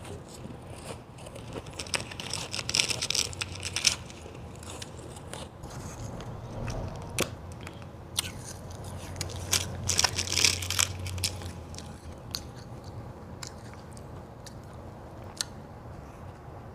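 A person biting and chewing hard white ice close to the microphone: two runs of loud, crisp crunching, one about two seconds in and another about halfway through, with a few single crunches between them.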